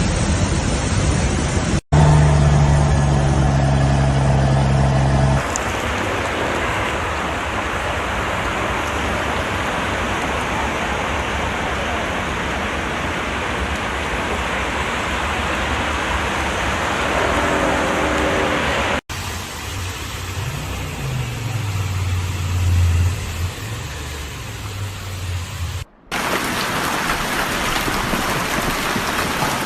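Heavy rain and rushing floodwater make a steady noise, broken by abrupt cuts three times. In two stretches a motor vehicle's engine hums low beneath it.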